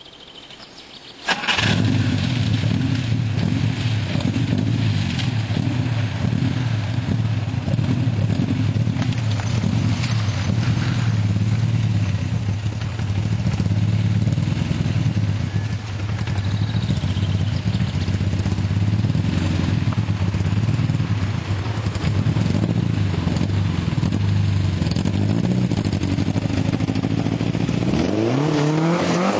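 Skoda 130 GL's rear-mounted four-cylinder engine starts suddenly about a second in, then runs loud and steady at a constant speed. Near the end the revs rise and fall as the car moves off.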